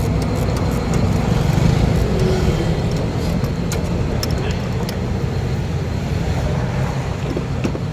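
Car engine running steadily, with faint light ticks over it.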